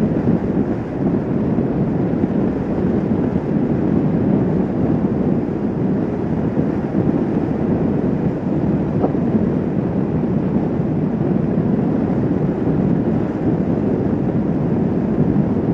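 Kawasaki Vulcan S 650 motorcycle riding at steady speed, with wind rushing over the microphone and a steady, even noise that does not change.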